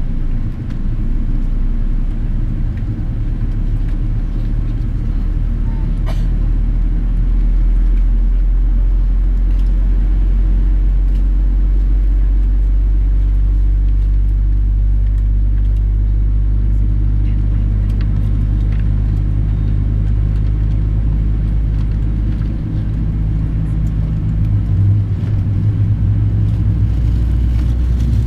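Boeing 777-300ER with GE90-115B engines at low power, a steady low rumble and hum; a further low hum comes up from about halfway through.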